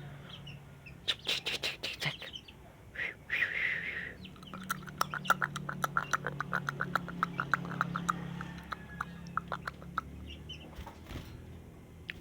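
Sooty-headed bulbul calling: a few short harsh notes, then from about four seconds in a fast run of clicking notes, several a second, that lasts about six seconds. It is calling rather than singing full song.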